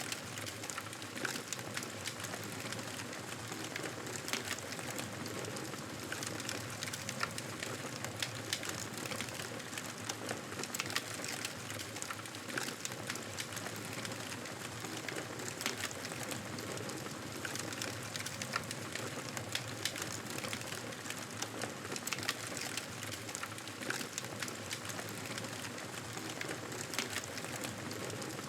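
Campfire burning, a steady hiss with frequent small crackles and pops scattered irregularly throughout.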